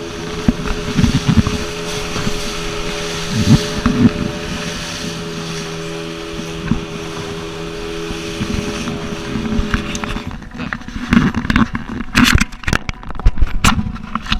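A motor running steadily with wind noise on the microphone, cutting out about ten seconds in. Irregular knocks and clatter follow.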